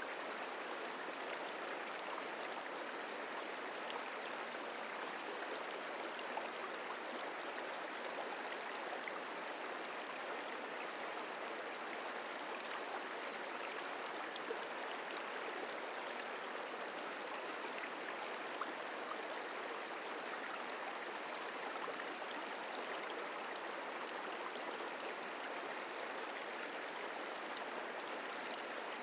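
The Merced River flowing: a steady rushing of water over rocks, even throughout.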